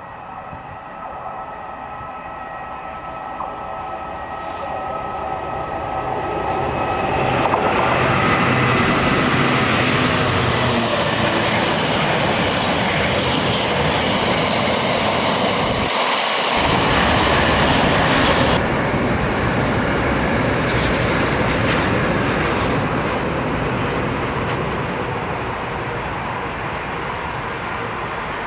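A train passing on the railway line: its sound builds over the first several seconds, stays loud for about ten seconds, and then eases off as it draws away.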